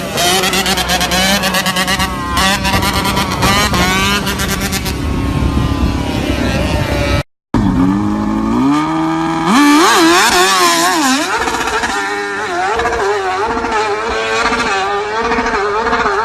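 Dirt bike engines running and revving, broken by a brief moment of silence about seven seconds in; after the gap an engine climbs steeply in pitch as it is revved.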